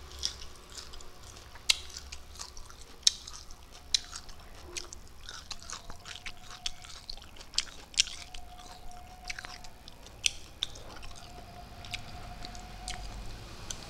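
Close mouth sounds of a person eating fried shell-on prawns by hand: chewing and crunching with wet lip and finger smacks, sharp ones every second or two. A faint steady high tone comes and goes in the background from about halfway.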